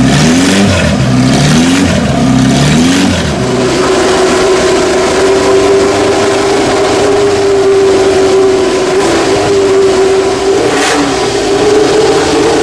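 Historic Grand Prix racing car engines at full throttle, the pitch climbing and dropping back in quick repeated gear changes for the first three seconds, then a high engine note held steady for the rest.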